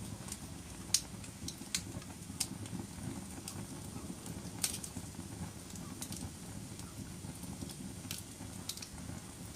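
Wood fire burning in a fireplace: a steady low rumble of the flames with scattered sharp crackles and pops, the loudest about a second in.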